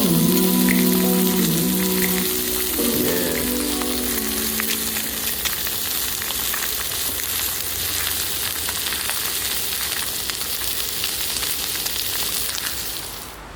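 Food frying in a pan: a steady sizzle with fine crackling, cutting off abruptly near the end. Background music fades out during the first few seconds.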